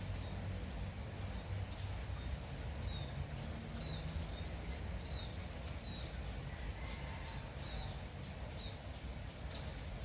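Steady light morning drizzle, with a small bird giving short high chirps about once a second and a few sharp drip clicks.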